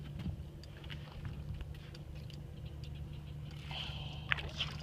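Steady low hum of an idling boat motor under light ticking, with a brief higher-pitched whirr about four seconds in.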